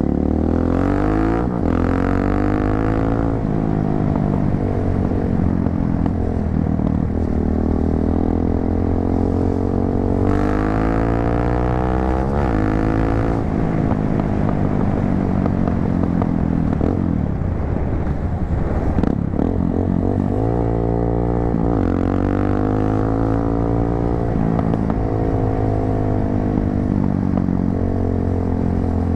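250cc motorcycle with an aftermarket muffler, riding: the exhaust note rises in pitch as it accelerates, drops at gear changes and rises again, with stretches of easing off and steady cruising.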